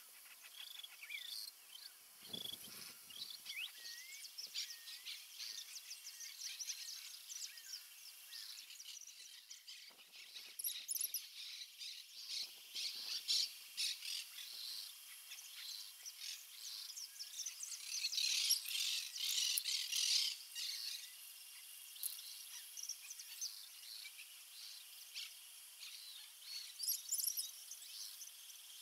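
A family of lark-like brushrunners (crestudos) calling: many short, high chirps and chatters, coming thickest in a burst a little past the middle and again near the end.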